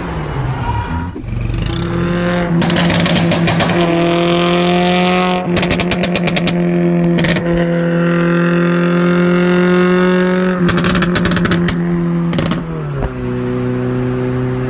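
Modified car engine held at steady high revs, with repeated bursts of sharp exhaust pops and bangs over it. About 13 seconds in, the revs step down to a lower steady pitch.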